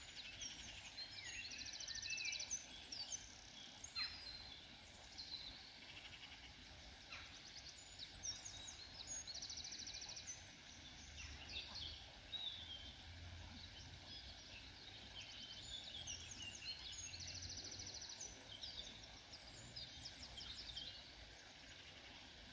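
Faint high chirping and peeping of birds, with a short, even, rapid trill that comes three times several seconds apart.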